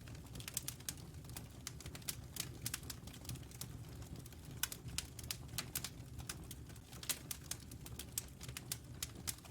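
Wood fire crackling: a rapid, irregular scatter of sharp pops and snaps over a steady low rumble.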